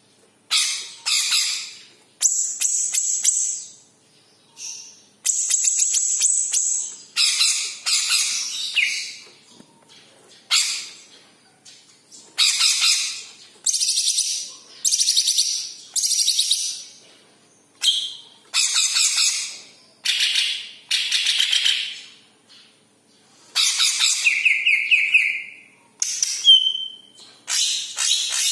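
Cucak ijo (green leafbird) singing: a string of harsh, chattering phrases about a second long with short pauses between them, mixed with high thin whistled notes and a few clearer whistles near the end.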